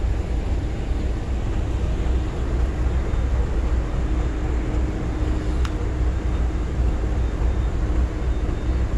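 Illuminated diesel locomotive and its cars rolling past: a steady low rumble of engine and wheels, with a faint steady hum joining about halfway and a single sharp click a little past the middle.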